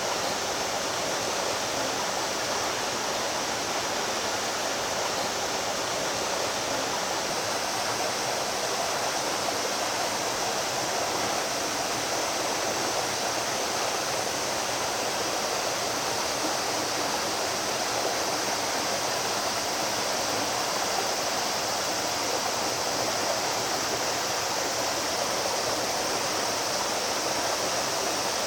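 Mountain stream water rushing and splashing over rocks in a steady, unbroken noise.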